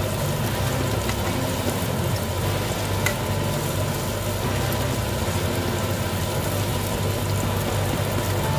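Leftover french fries sizzling as they fry in a pan, stirred and turned with metal tongs, with one sharp click of the tongs about three seconds in.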